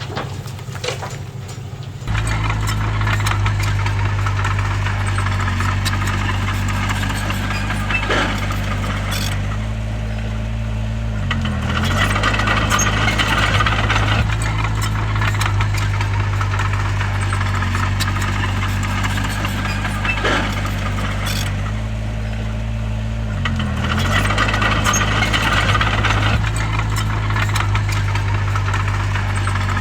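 A bulldozer's diesel engine runs steadily with rattling and clatter. Its pitch dips briefly and recovers twice, as it comes under load.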